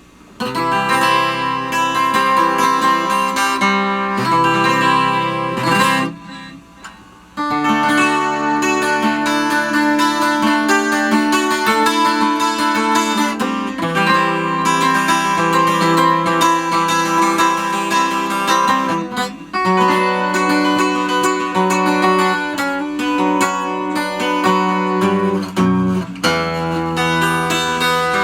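Acoustic guitar playing an instrumental song intro, with a brief quieter moment about six seconds in.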